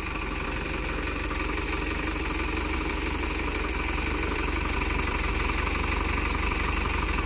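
Tractor diesel engine idling steadily, growing slowly louder.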